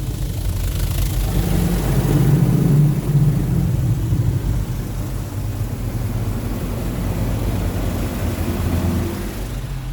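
Touchless car wash machinery spraying the vehicle, heard from inside the car's cabin: a steady low hum under a rushing spray that swells about one to three seconds in and eases near the end.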